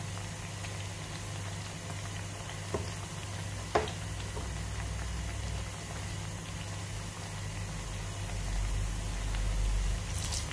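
Ripe plantain slices sizzling steadily in hot oil in a non-stick pan. About three and four seconds in there are two sharp knocks as the metal slotted spoon turning the slices hits the pan.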